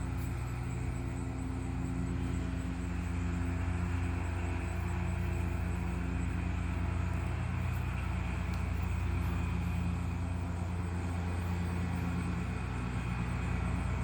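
Small engine of a lawn mower running steadily, a constant droning hum.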